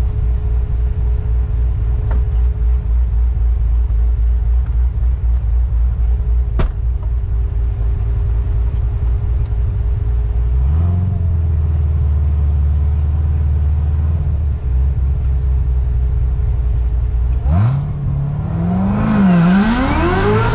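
Supercharged LT4 V8 of a modified 2016 Corvette Z06 with long-tube headers, heard from inside the cabin. It idles with a choppy low rumble, steps up to a steady higher engine speed about ten seconds in, then near the end revs rise and fall in quick blips as the car pulls away.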